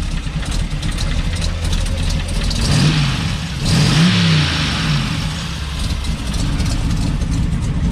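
Twin-turbo LS V8 idling, revved briefly twice, about three and four seconds in. The second rev comes with a rush of hiss.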